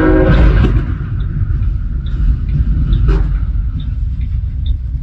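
A loud horn with several pitched tones stops about half a second in. It gives way to a heavy, steady low rumble of a large vehicle, with faint regular ticking over it.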